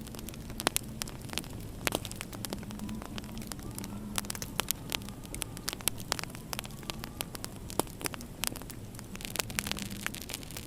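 Wood fire in a fireplace crackling, with frequent sharp pops at irregular intervals, over a low steady rumble of winter wind.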